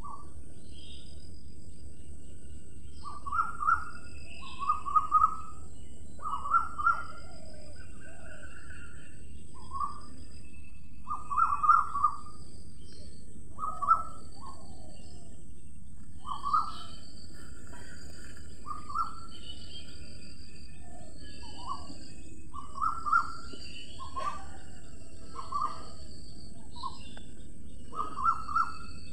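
Birds chirping: short calls repeated irregularly, over a steady low background hiss.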